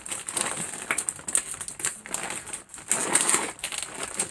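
A foil chip bag crinkling and crackling in irregular bursts as it is handled and pulled at to get it open.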